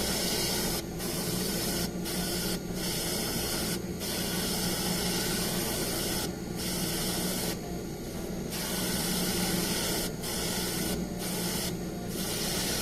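Airbrush spraying black-gold paint in a steady hiss, broken by short pauses every second or so and a longer one about 8 seconds in, over a constant low hum.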